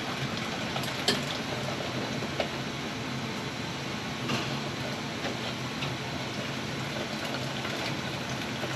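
Steady rushing, watery noise from a running gas-fired steam boiler, a Weil-McLain EG-40, with a faint low hum underneath and a few small clicks, during a test of its low water cutoff.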